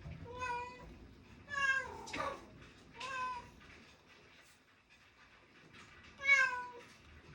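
Domestic cat meowing repeatedly: three meows in the first three and a half seconds, the second with a falling tail, then a louder meow about six seconds in.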